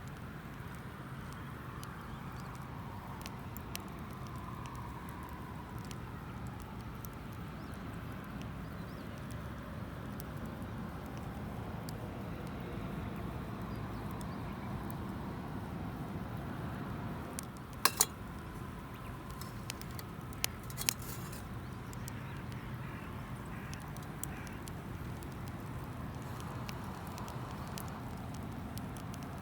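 Wood campfire burning with scattered small crackles over a steady low rumble, and a few sharp clicks about two-thirds of the way through.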